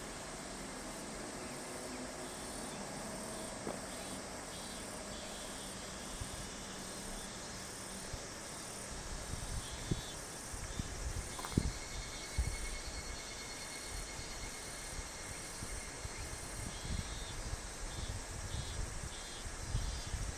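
A summer evening chorus of insects, higurashi cicadas and crickets, calling in steady pulsing trills. From about nine seconds in, low irregular rumbles come and go underneath.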